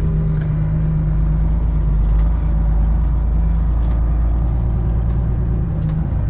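Semi truck's diesel engine running steadily at low speed, a deep low drone that eases slightly near the end.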